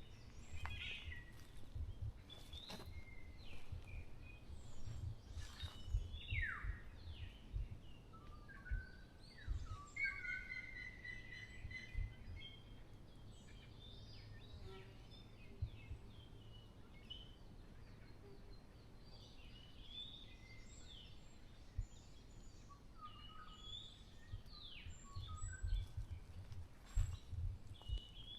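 Several forest birds calling and singing: many short chirps, quick down-sweeping notes and a held whistled note about ten seconds in. Low gusts of wind rumble on the microphone come and go, loudest near the start and near the end.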